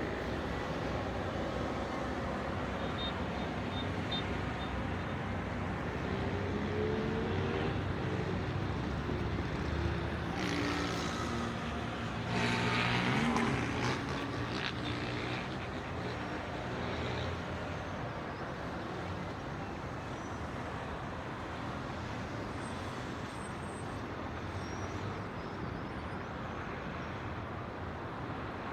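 City road traffic: a steady wash of vehicles. One engine can be heard speeding up about a quarter of the way in, and a louder heavy vehicle passes near the middle.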